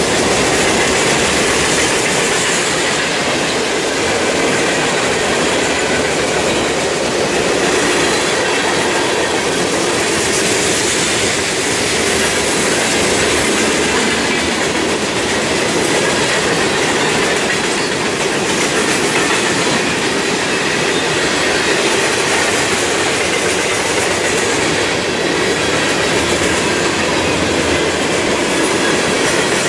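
A mixed freight train of boxcars, covered hoppers and tank cars rolling past close by: steady clatter of steel wheels on the rails, with a faint high wheel squeal.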